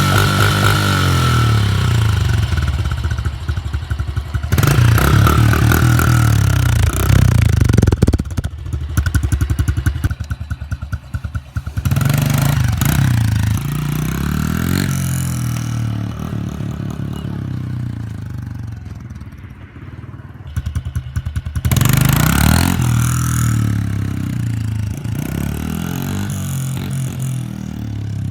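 Honda CRF110F dirt bike's small single-cylinder four-stroke engine revving in repeated surges, at the start, around five to eight seconds in, near twelve seconds and again around twenty-two seconds, easing off between them. These are hard throttle bursts to lift the front wheel into wheelies.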